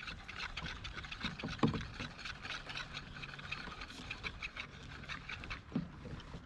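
Wet crab-pot rope being hauled up over the side of a kayak, with water pattering off the line in many small irregular ticks.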